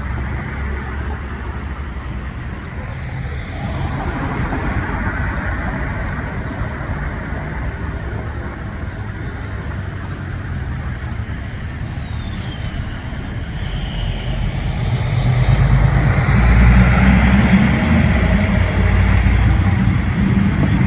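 Steady low rumble of road traffic, swelling louder about 14 seconds in.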